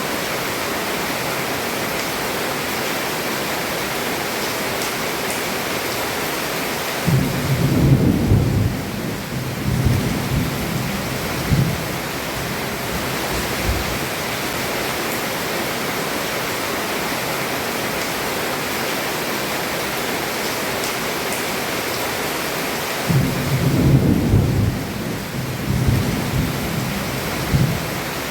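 Heavy rain falling steadily on a roof, with two long, low rolls of thunder, one about seven seconds in and another near the end, each rumbling on for several seconds.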